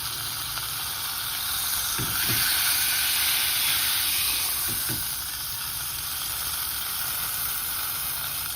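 New York strip steak sizzling in a frying pan as its fat edge is seared. The sizzle swells louder about two seconds in and eases back around five seconds.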